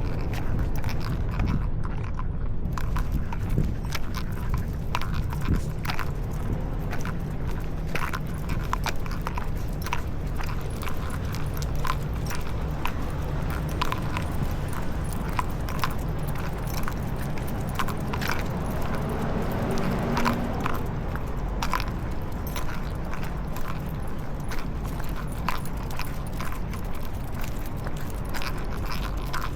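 Dog-walk sounds: light metallic clinking and ticking from the dogs' leash and collar hardware, with scattered irregular clicks, over a steady low street rumble.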